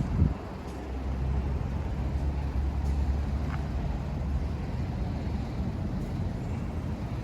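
A Honda CB1100RS's air-cooled inline-four engine idling steadily, with a brief louder burst right at the start.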